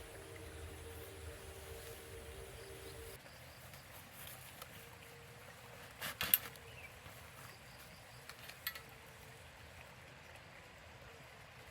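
Quiet outdoor ambience with faint insect calls, broken by a sharp knock about six seconds in and a lighter one just before nine seconds.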